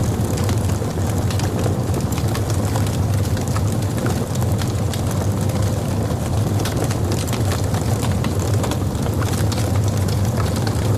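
Logs burning in a fireplace: a steady low rumble of the fire with frequent small crackles and pops throughout.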